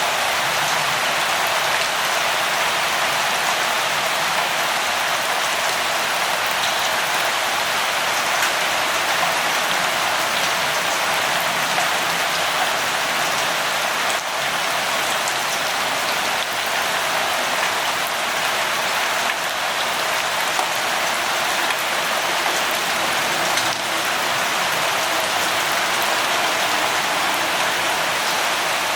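Steady light rain falling, a constant hiss with fine drop patter.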